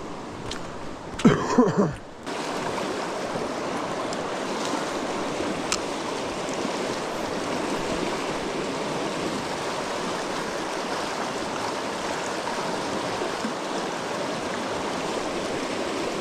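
Creek water running steadily. About a second in, a brief louder sound with bending, falling pitch cuts through, then the water noise dips for a moment and comes back steady.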